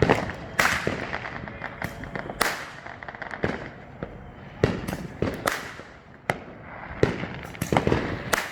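Neighbourhood consumer fireworks going off: a rapid, irregular string of sharp bangs and pops, some loud and near and others fainter, several trailing an echo.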